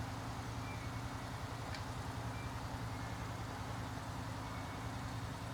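Steady low mechanical hum, like an engine idling, with one faint click about two seconds in.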